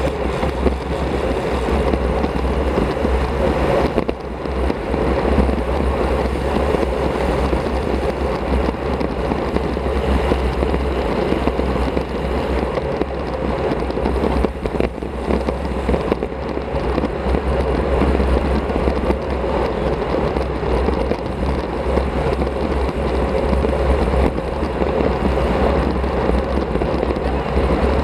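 Steady wind noise buffeting the microphone of a Shimano CM-1100 action camera on a road bike riding at speed, a continuous low rumble with a rushing hiss over it.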